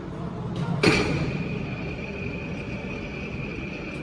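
Double-head aluminium cutting saw with 500 mm blades running with a steady hum; about a second in a blade bites into an aluminium profile with a sharp onset, then holds a steady high-pitched whine as it cuts.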